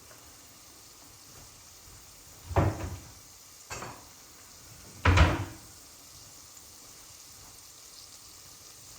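Kitchen cupboard doors knocking shut: two solid thuds about two and a half seconds apart, with a lighter knock between them.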